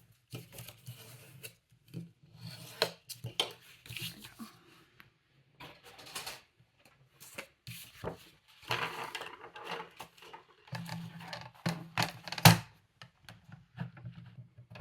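Scissors snipping and trimming around a piece of light cardstock, with paper rustling as it is handled and turned. The sounds come in short, irregular bursts, with one sharp click about twelve and a half seconds in.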